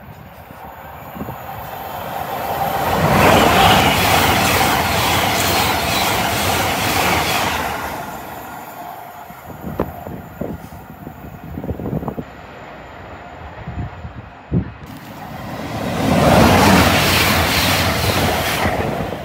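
Two trains running through the station at speed, each a rising then fading rush of wheels on rail and air: the first swells about three seconds in and dies away by about eight seconds, the second, a Hull Trains Class 802 bi-mode unit, swells about fifteen seconds in and is still loud near the end. A few short sharp knocks come in between.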